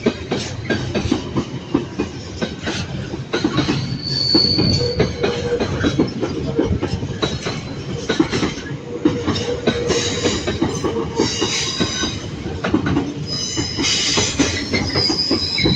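Class 66 diesel freight locomotives running together in convoy past the platform, engines running under the steady rumble, with rapid wheel clicks over rail joints. High wheel squeal sounds briefly about four seconds in and again repeatedly in the second half.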